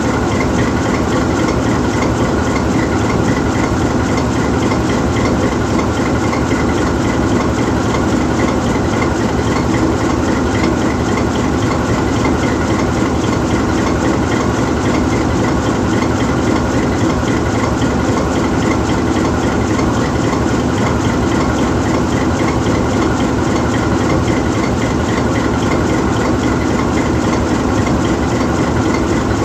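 GE U20C diesel-electric locomotive's V12 diesel engine idling steadily with the locomotive standing still, an even, unchanging drone.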